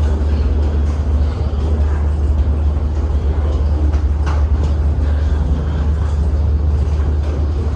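Steady low rumble inside the cabin of a Boeing 737-800 airliner, with a few faint clicks.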